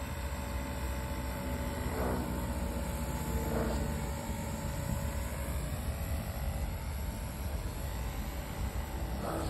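V950 electric RC helicopter running steadily, a constant motor and rotor whine over low wind rumble on the microphone.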